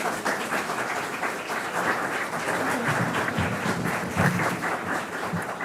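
Audience applauding in a hall after a song.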